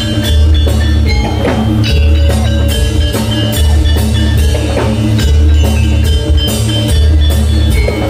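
Live Javanese gamelan music for a jathilan horse dance: drums beating over tuned metal percussion, with a heavy low stroke about every second and a half.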